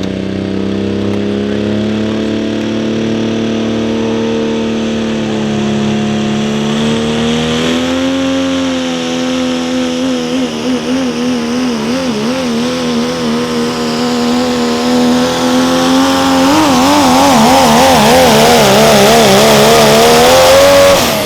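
Diesel pulling pickup's engine at full throttle hauling the sled down the track, its pitch mostly steady and slowly climbing, then wavering rapidly up and down in two spells as the revs surge under load. It is loudest near the end, then the driver lets off and the engine note drops away.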